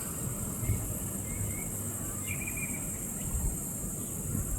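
Outdoor bush ambience: a steady high-pitched drone with a few faint short chirps over a low rumble.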